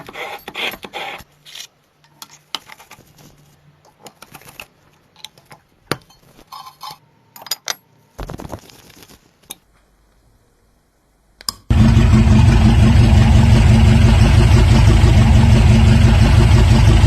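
Small metal parts clicking and clattering as they are handled, then, about twelve seconds in, a small four-cylinder model engine begins running, loud and steady.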